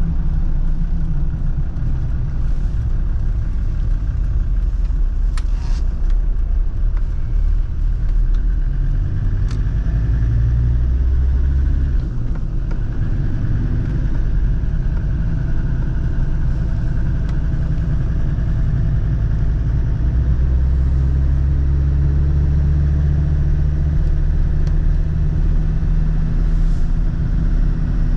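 Land Rover Defender TD5's five-cylinder turbodiesel running under way, a steady low rumble whose engine pitch rises and falls with a brief dip about twelve seconds in.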